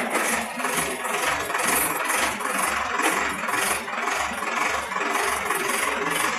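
A Sonalika tractor's diesel engine running steadily, with a rattle and a low pulsing about twice a second.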